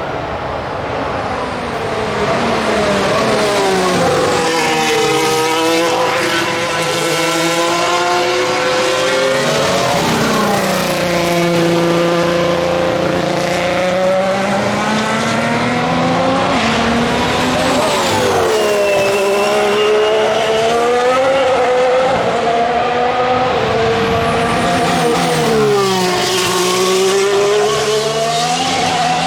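2019 Formula 1 cars with 1.6-litre turbocharged V6 hybrid engines passing through a chicane one after another, about four in all. Each engine note drops in pitch through the downshifts under braking, then climbs again as the car accelerates out.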